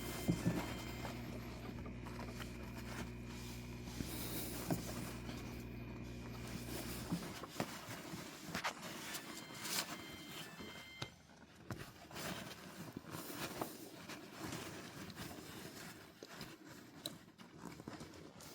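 A steady low electrical hum cuts off abruptly about seven seconds in. Through the rest come faint scattered scrapes, rubs and small taps of paper towel wiping and parts being handled.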